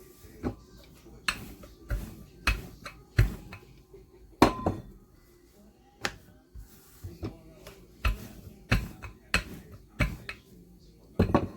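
Irregular knocks and clatter of kitchen utensils and dishes handled on a counter, about one to two sharp knocks a second with short pauses; one knock about four and a half seconds in rings briefly.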